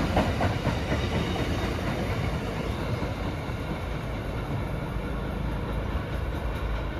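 Commuter train rolling past on the track: a few wheel clicks over the rail joints at the start, then a steady rumble of wheels on rail that grows a little quieter over the first few seconds.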